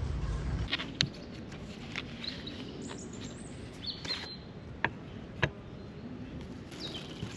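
Birds chirping over quiet outdoor ambience, with a few sharp clicks; a low rumble stops under a second in.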